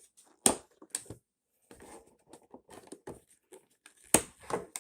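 LUXEAR hard plastic fridge containers and lids being handled: a series of sharp plastic clicks and clacks, the loudest about half a second in and again near the end, with softer rustling between.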